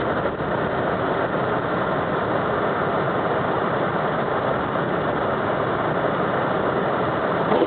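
Steady running noise of a car, heard from inside the cabin, even and unchanging throughout.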